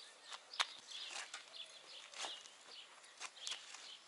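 Birds chirping, with scattered short clicks and scuffs; a sharp click about half a second in is the loudest sound.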